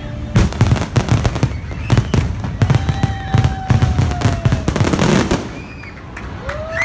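Fireworks finale barrage: a rapid, dense string of bangs and crackling reports that eases off about five seconds in.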